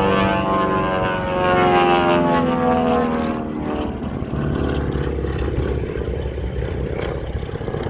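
Propeller airplane flying past, its engine drone dropping in pitch over the first few seconds as it goes by, then settling into a steadier, lower drone as it moves away.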